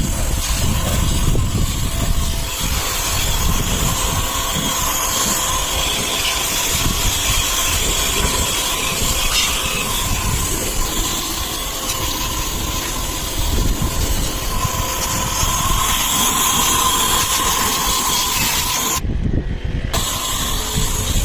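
Jet pump pressure washer running with a steady hiss of water spray and a faint wavering motor whine.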